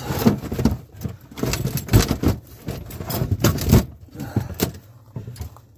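Metal clanks and clicks of a stainless steel cam-lock hose fitting being unlatched and pulled off a manifold, with a few heavier knocks of the hose and fitting.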